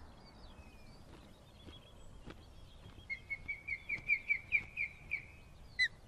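Wild bird calls: a few faint chirps, then from about three seconds in a bird gives a series of about a dozen clear whistled notes that quicken and grow louder, running into a short trill near the end.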